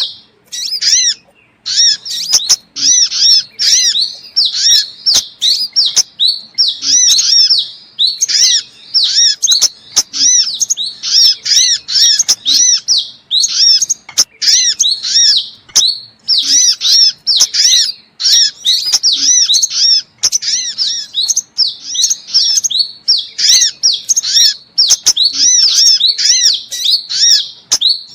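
Lure recording of sunbird calls: rapid, high, repeated twittering chirps in dense runs broken by brief gaps. It is a mix of crimson sunbird, brown-throated sunbird and spiderhunter calls, made to draw these birds in.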